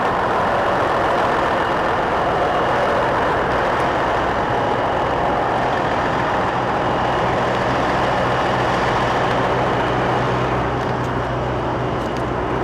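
Diesel semi-truck engines idling, a steady, unchanging engine noise with a low hum underneath.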